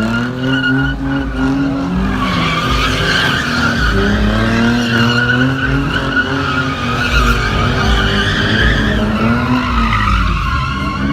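A car engine revving hard, its pitch rising and falling again and again, with tyres squealing from about two seconds in until near the end.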